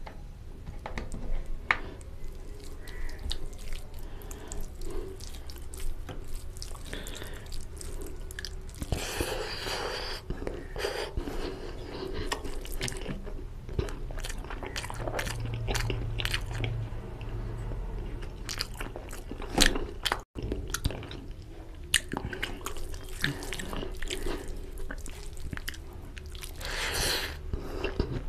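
Close-miked chewing and wet mouth smacks from eating curry and rice by hand, with many short clicks. There are a few longer squelchy bursts, about nine seconds in and again near the end.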